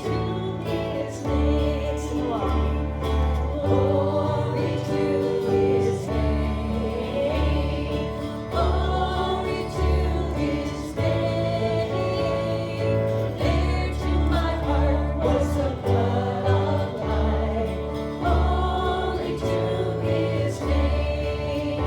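Gospel hymn sung by a group of voices with band accompaniment, with a steady bass line moving under the melody.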